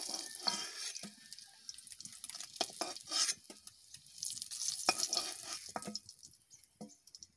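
Boiled eggs frying in hot mustard oil in a karahi, sizzling, while a metal spatula scrapes and clinks against the pan as the eggs are lifted out. The sizzling fades near the end.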